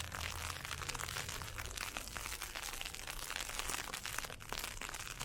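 Footsteps crunching through heavy, wet snow and ice pellets, a dense run of crackling crunches, over a low steady wind rumble.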